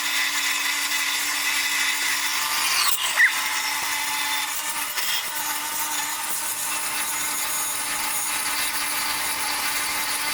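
Bandsaw blade cutting through stainless steel exhaust tubing under its own weight: a steady hiss of the blade in the metal over a constant motor hum. There is a short sharp knock about three seconds in.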